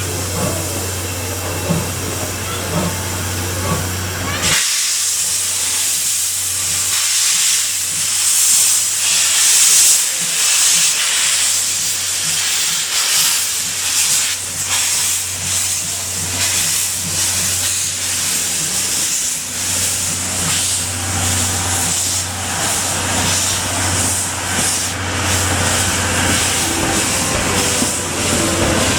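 Steam hissing from a C11 tank steam locomotive: a steady low hum, then about four and a half seconds in a loud hiss of steam starts abruptly and carries on, rising and falling.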